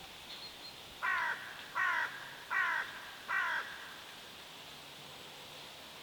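A bird gives four short calls in a row, evenly spaced about three-quarters of a second apart, each slurring slightly down in pitch, over a faint steady background hiss.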